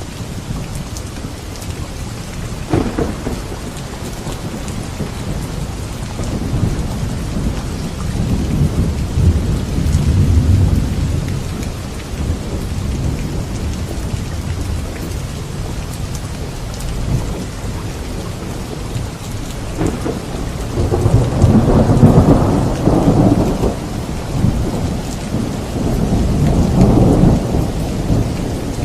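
Thunderstorm: steady rain with rolling thunder. A short crack of thunder comes about three seconds in, then low rumbles swell and fade, the loudest near the end.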